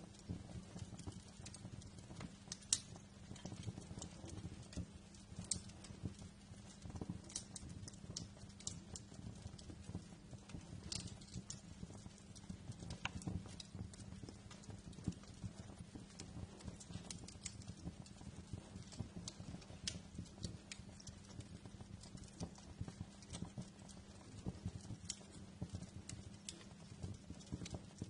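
Wood fire crackling in a fireplace: irregular sharp pops and snaps, a few louder ones, over a steady low rumble of burning.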